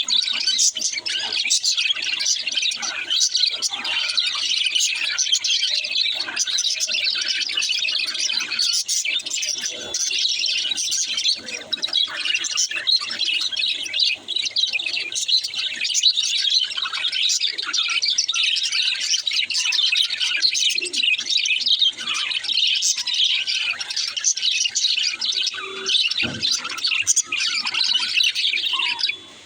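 Many small birds chirping and chattering continuously, calls overlapping without a pause.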